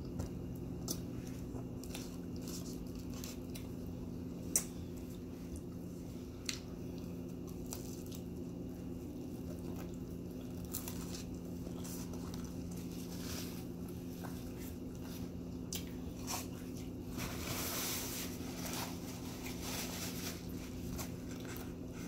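Close-up chewing of a bacon, egg and sausage McMuffin, with wet mouth clicks and smacks, over a steady low hum. About three-quarters of the way through there is a few-second stretch of louder, noisier chewing.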